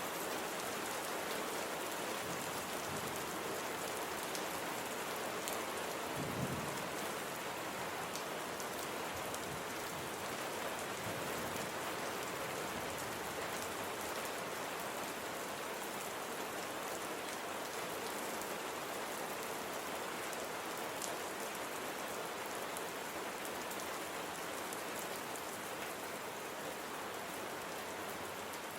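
Steady rain falling and pattering on a surface, with a few sharp drop ticks and one brief low thump about six seconds in.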